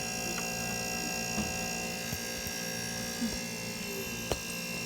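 Refrigerator compressor running with a steady electric hum, its condenser fan stopped and silent because the fan has failed, which leaves the condenser and compressor running very hot. A few light clicks of handling, the sharpest about four seconds in.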